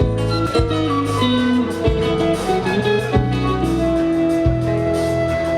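Live band playing: guitar over a low bass line and a steady beat.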